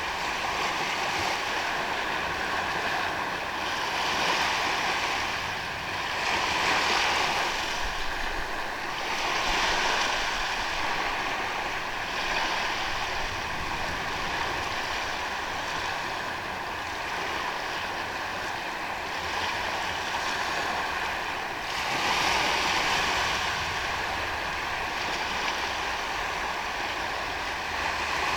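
Sea waves washing onto a sandy beach, the surf rising and falling in swells every few seconds, with a faint steady high tone underneath.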